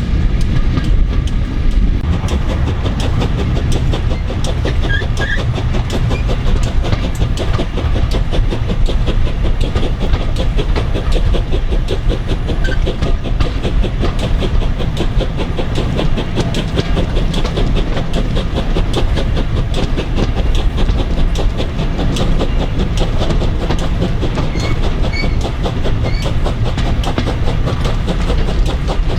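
Steam-hauled passenger train running steadily at speed: a continuous low rumble with rapid clicking and clattering from the wheels on the rails.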